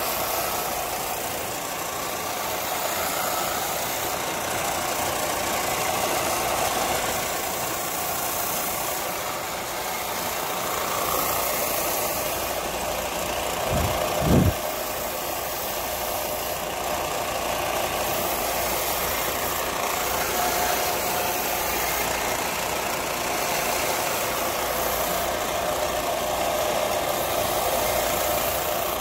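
A machine's motor running steadily without a break, with two brief low thumps about halfway through.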